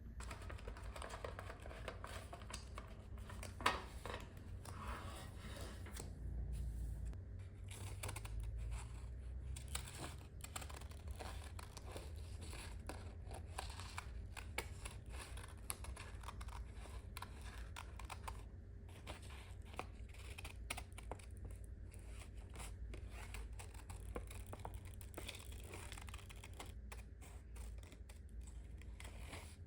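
Close handling of paper: rustling, tearing and scratchy snips with many small clicks, and one sharp click just under four seconds in.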